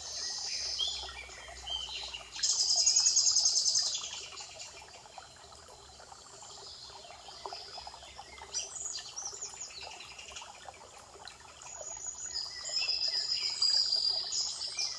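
Songbirds singing: a loud, rapid high trill about two and a half seconds in that lasts over a second, scattered short chirps in the middle, and another run of trilling notes near the end.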